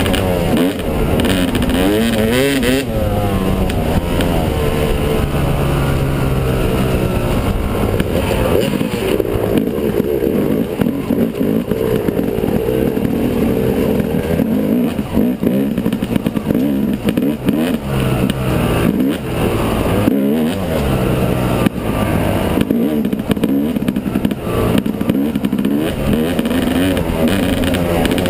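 Yamaha 250 dirt bike engine running under way, its pitch rising and falling again and again as the throttle is opened and rolled off, with a few short drops in level as it backs off.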